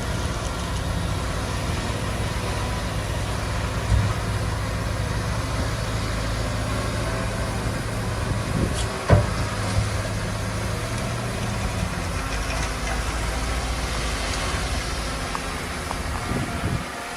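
Heavy diesel engine of earthmoving machinery running steadily, with a knock about four seconds in and a louder clank about nine seconds in. The low engine drone eases off about twelve seconds in.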